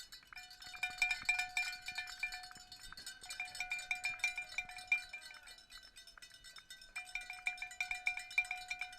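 A cowbell shaken rapidly, its clapper striking many times a second, in three spells with short pauses between.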